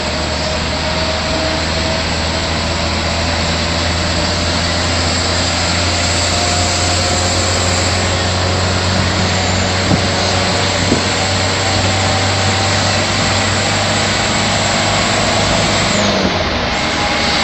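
Mitsubishi Canter light truck driving at high speed: a steady low engine drone under loud, even road and wind noise. Two short knocks about ten and eleven seconds in.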